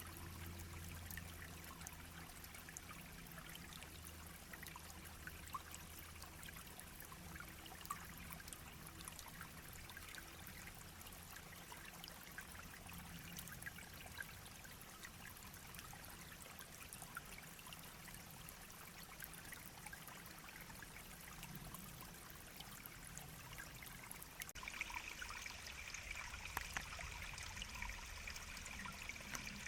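Small mountain stream babbling: a steady, quiet trickling rush of water with many tiny splashes through it.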